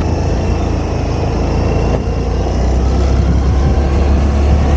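Motorcycle engine running steadily while riding, a low even hum with road noise.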